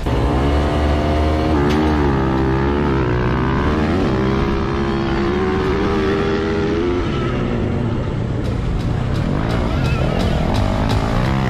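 Dirt bike engine revving up and down, its pitch rising and falling again and again, easing off about seven seconds in and climbing again near the end.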